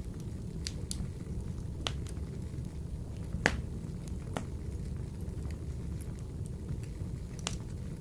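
Wood fire burning in a wood-burning stove: a steady low rumble of flame with scattered sharp crackles and pops, the loudest about halfway through.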